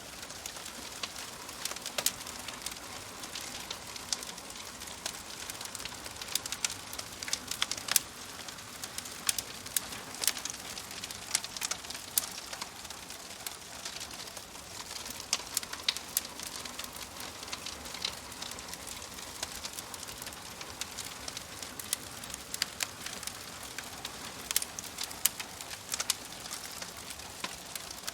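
Wood fire in a fireplace crackling: irregular sharp pops and snaps from burning logs over a steady hiss.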